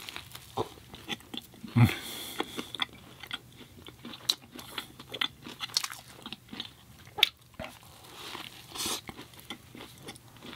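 Close-miked eating of a plant-based Beyond Burger: wet chewing and mouth clicks throughout, a louder bite with a low thump about two seconds in, and a short crunch near the end.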